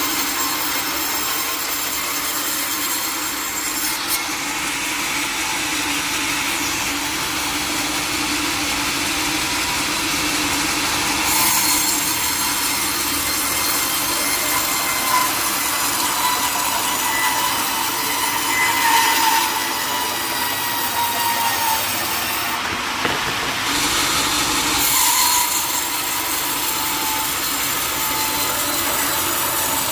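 Sawmill saw cutting through teak wood: a continuous dense sawing noise with a whine that shifts slightly in pitch as the cut goes on.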